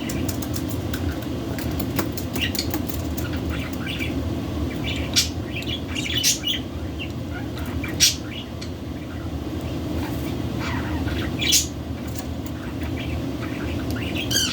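Pet budgerigars giving short, high chirps every couple of seconds over a steady low background noise.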